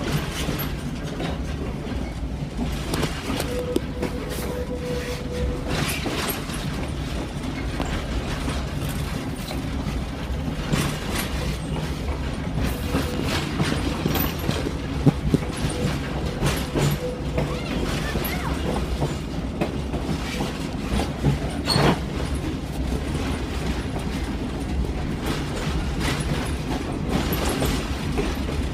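Passenger train running along the track, heard from aboard: a steady rumble with scattered clicks and knocks from the wheels and cars.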